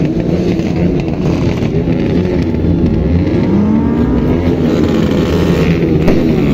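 Modified car engine revving hard, its pitch rising and falling repeatedly, with one longer rev climbing and dropping a little past halfway, and a sharp crack about six seconds in.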